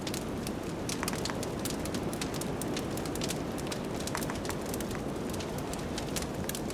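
Wood fire crackling, with many sharp, irregular pops and snaps over a steady low rush of blizzard wind.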